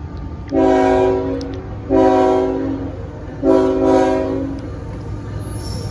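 Diesel locomotive air horn on a CSX coal train sounding three blasts, the first and last about a second long and the middle one shorter, each a chord of several notes. Under it runs the train's steady low rumble.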